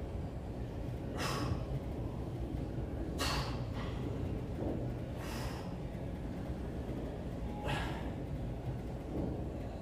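A man's sharp, forceful exhalations through the nose and mouth, four breaths about two seconds apart, while straining through dead bug ab reps.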